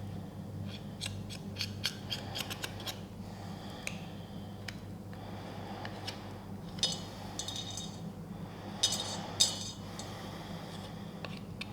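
A spoon scraping and clicking against a container while chocolate spread is scooped and worked into the brownie mixture. It starts with a run of quick clicks, then two short scrapes just past the middle, over a steady low hum.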